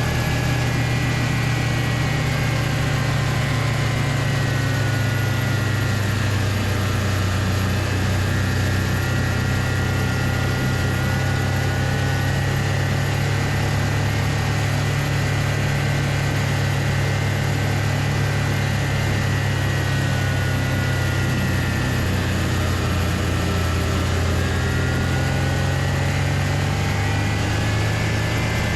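Homemade snowmobile's Loncin engine running steadily under way, its whine dipping slowly in pitch and rising again near the end.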